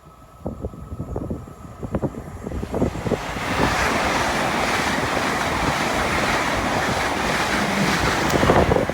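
A train rushing past at speed, a loud steady roar that builds about three seconds in and holds until near the end, with wind buffeting the microphone.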